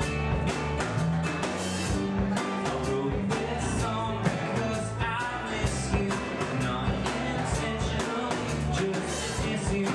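Live band playing a rock song with acoustic guitar, mandolin, bass guitar and drums, over a steady drum beat.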